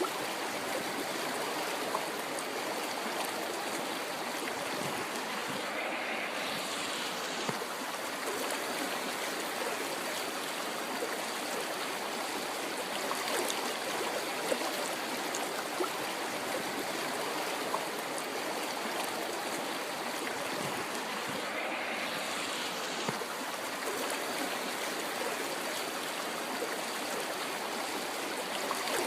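River water flowing: a steady, unbroken rushing of moving water.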